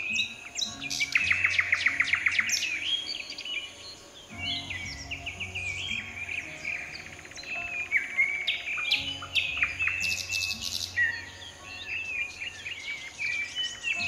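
Birds singing and chirping in overlapping calls, with a fast trill of repeated notes about a second in and a short high trill around ten seconds in.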